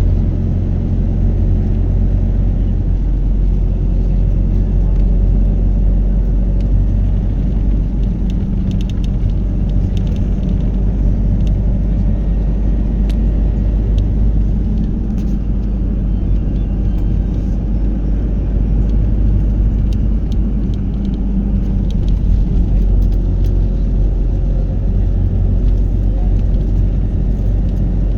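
Steady low rumble of a car in motion, with faint ticks over it now and then.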